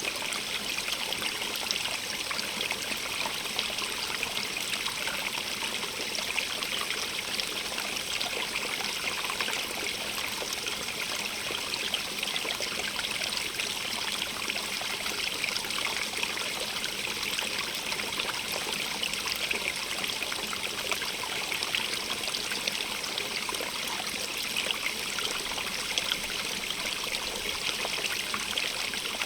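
Stream of running water, a steady splashing trickle with a bright hiss and small crackling splashes, even throughout.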